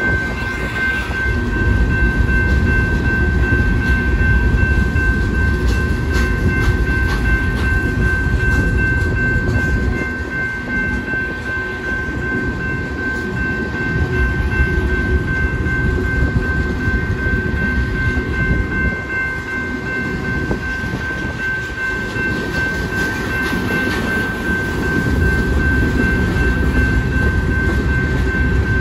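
Freight cars of a passing train rolling over a grade crossing: a steady rumble of steel wheels on rail with clacking over the joints, easing slightly twice. Over it runs a steady high ringing tone, the crossing signal's bell.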